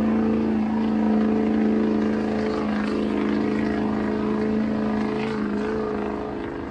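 Truck engine held at steady high revs during a burnout, a sustained drone whose pitch eases slightly and which fades a little near the end.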